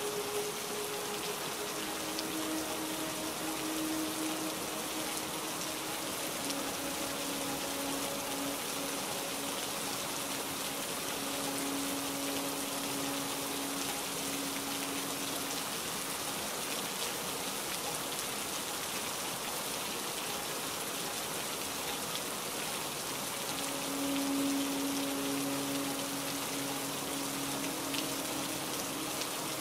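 Steady heavy rain falling, an even hiss of countless drops, with faint slow held notes beneath it.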